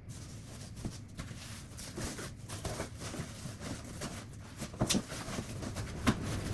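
Household handling noises from tidying, played back at double speed: rustling and small clicks, with two sharp knocks a little over a second apart near the end.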